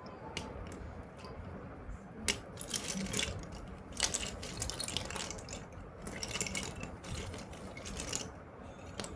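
Slate pencils and their packaging being handled during unboxing: irregular small clicks, taps and rustling, with the sharpest clicks about two and four seconds in.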